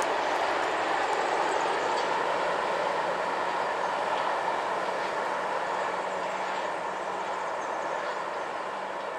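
Freight train's wagons rolling away along the track, a steady rumble of wheels on rail that slowly fades.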